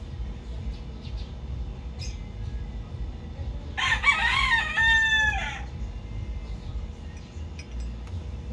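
A rooster crowing once, about two seconds long, near the middle, over a steady low rumble.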